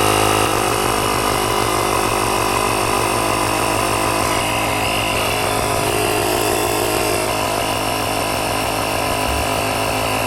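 Built-in battery-powered air compressor of a portable jump starter pack running steadily, pumping up a tire from about 19 psi.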